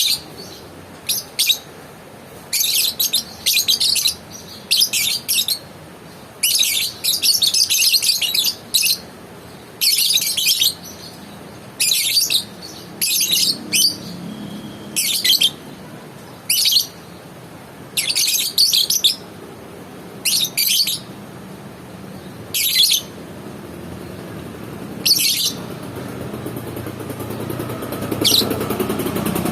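A lovebird giving repeated bursts of high, shrill chirping chatter, about twenty bursts, most under a second and a few lasting one to two seconds.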